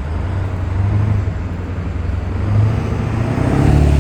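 Car engine and road noise, a low steady drone that grows louder near the end with a slight rise in pitch.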